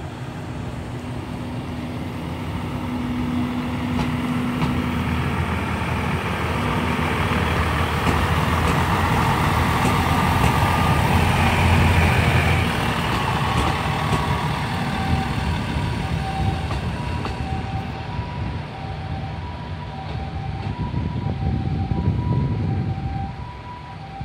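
Diesel railcar passing close by: the engine and the wheels on the rails build up to a peak around the middle, then fade as it moves away. In the last third a level-crossing warning bell rings in a steady beat of two alternating tones.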